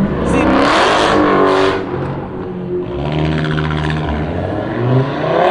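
Sports car engines revving and accelerating: the pitch climbs over the first second or so, settles to a steadier drone, then climbs again near the end.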